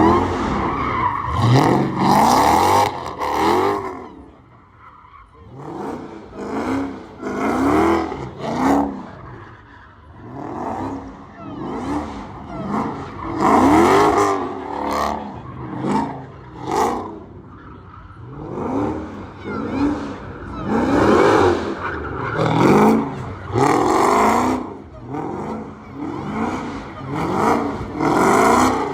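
Dodge Hellcat's supercharged 6.2-litre Hemi V8 being revved hard over and over, each rev rising in pitch and then falling back, with short lulls near idle between bursts.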